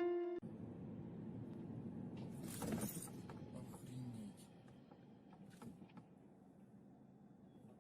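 Faint vehicle road noise recorded by a dashcam, with a short rush of noise about two and a half seconds in and a few light clicks. Plucked background music cuts off just at the start.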